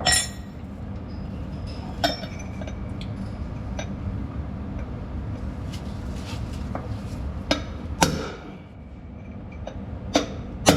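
Hammer striking metal on a truck's wheel-end parts: about six sharp, irregularly spaced metallic knocks, each ringing briefly, over a steady low hum.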